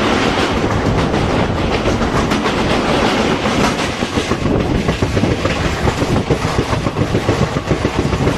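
Passenger train running along the line, heard at an open coach window: a steady rumble of wheels on rail with the clickety-clack of wheels over rail joints, the clicks more distinct in the second half.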